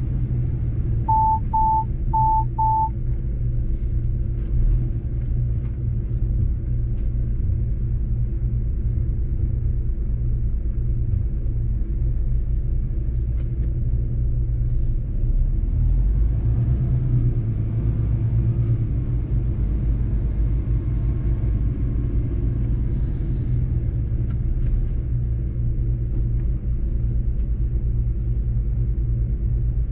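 Mercedes-Benz truck's diesel engine and road noise, a steady low rumble while driving. About a second in, four short, evenly spaced electronic beeps.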